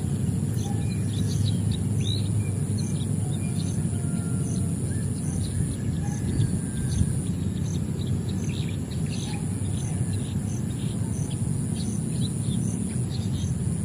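Many small birds chirping in short, scattered calls over a steady low rumble. A thin steady high whine with a faint regular pulse runs underneath.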